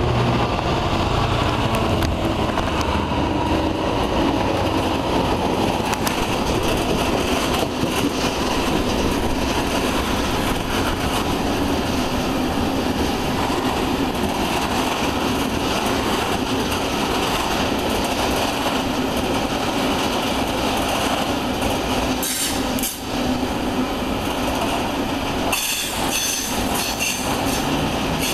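A freight train of open wagons rolling past at speed: a continuous rumble and clatter of wheels on rail, with the Class 66 diesel locomotive's engine heard at the start as it goes by. High-pitched wheel squeal comes in near the end.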